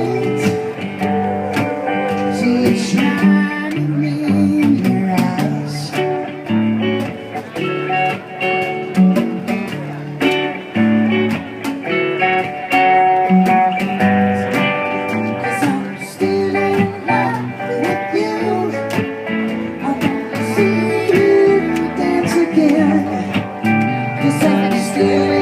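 Live acoustic band playing an instrumental passage: plucked guitar and mandolin over congas, with steady sharp hand-drum hits.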